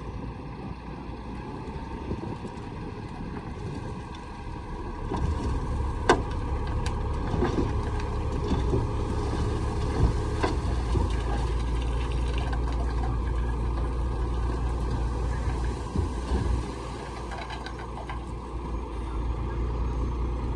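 Diesel earthmoving machinery running, a bulldozer or dump truck at work. Its deep engine sound grows louder about five seconds in and eases off near the end, with a couple of sharp knocks along the way.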